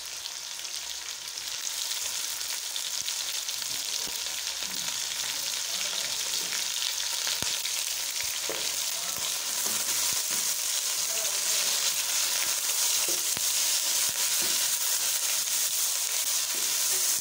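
Chicken pieces and sliced onions sizzling in hot oil in a nonstick pan as they are browned, with a spatula stirring and scraping through them. The sizzle is a steady hiss that grows gradually louder.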